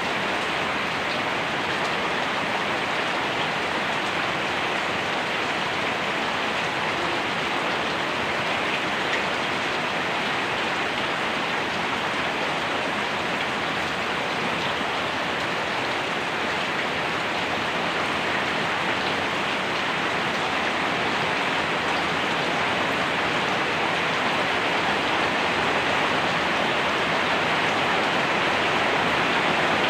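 Steady rain falling, a continuous even hiss of drops on surfaces, growing slightly louder towards the end.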